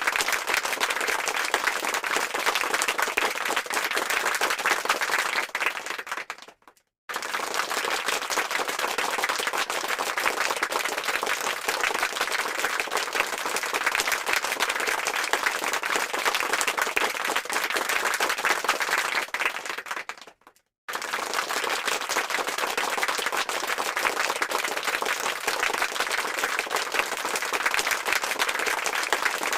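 Applause sound effect: a crowd clapping steadily. It fades out and cuts to silence twice, about six and a half seconds in and about twenty seconds in, then restarts.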